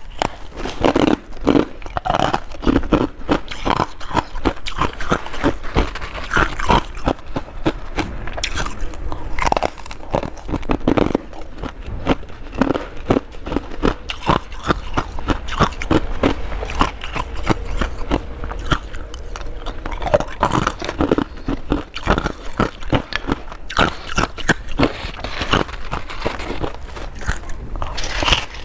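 Mouthfuls of crunchy humidifier frost bitten and chewed fast, a dense, continuous run of crisp crunches.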